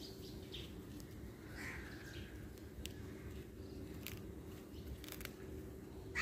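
Faint outdoor ambience with a steady low hum, a distant bird call a little under two seconds in and a few faint clicks, then a louder falling call right at the end.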